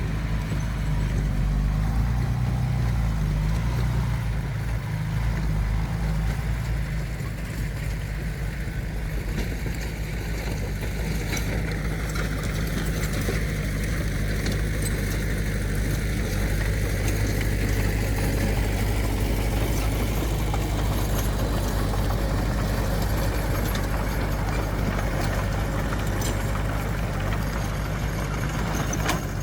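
Heavy earthmoving machine's diesel engine running steadily with a low, even drone, a little louder for the first few seconds.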